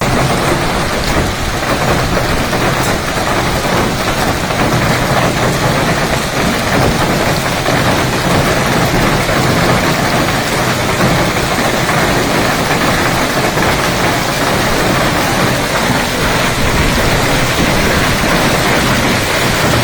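Heavy hail and rain pounding down, a dense, steady clatter of hailstones and water striking surfaces.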